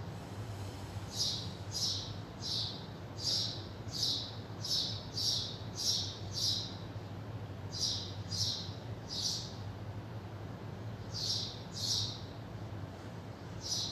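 A bird chirping outdoors in runs of short, sharp chirps, a little under two a second, with short pauses between runs. A steady low hum runs underneath.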